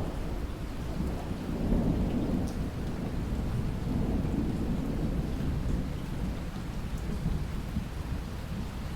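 Rain falling with a low, continuous rumble of thunder that swells and eases, and a few separate drop ticks.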